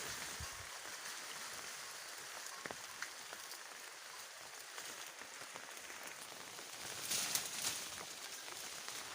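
Leafy foliage rustling: a steady hiss with scattered small clicks and snaps, swelling louder about seven seconds in.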